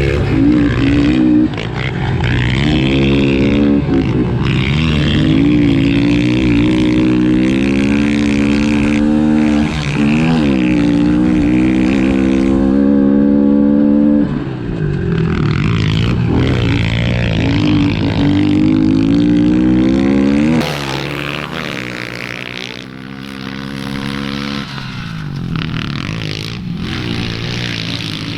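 Pit bike engine ridden hard, its pitch climbing and dropping again and again with throttle and gear changes. It eases off and runs quieter about two-thirds of the way through.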